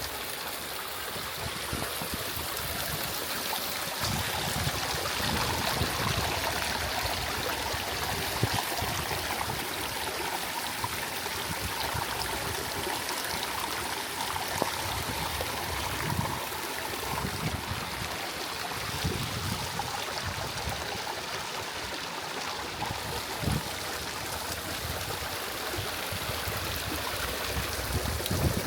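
Steady rushing of flowing water, with irregular low rumbles underneath.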